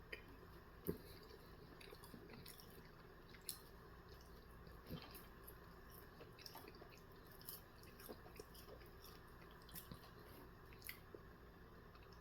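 Faint chewing with scattered small wet mouth clicks and smacks, close to the microphone.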